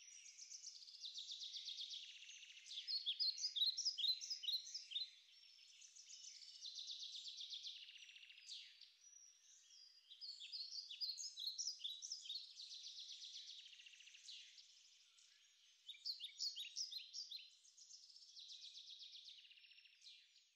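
Bird song: high-pitched phrases that alternate a rapid trill with a run of quick chirping notes, repeating every few seconds.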